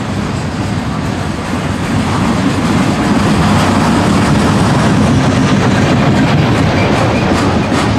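Freight train cars loaded with trash containers rolling past, their steel wheels running steadily on the rails. The sound gets a little louder after about two seconds.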